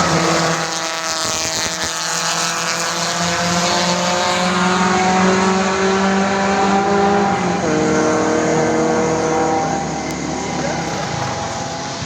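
Racing car engine running hard at high revs, its pitch drifting slowly, with a change in note about seven and a half seconds in.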